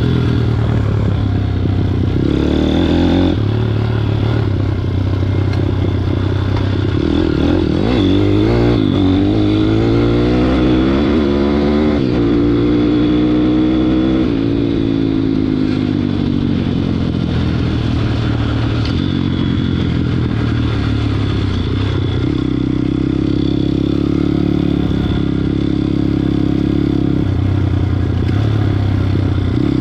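WPB 160cc pit bike engine running while ridden, its pitch rising and falling with the throttle: it climbs steadily for several seconds partway through, then drops away.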